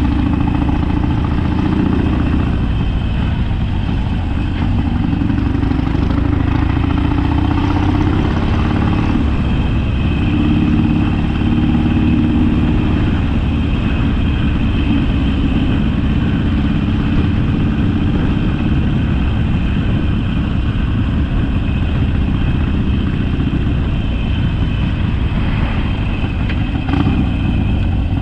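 Harley-Davidson Sportster's air-cooled V-twin engine running under way, its note rising and falling several times as the bike speeds up and eases off.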